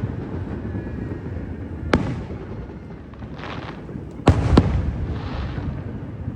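Fireworks display: one sharp bang about two seconds in and two more in quick succession about four seconds in, over a continuous low rumble of distant, echoing bursts.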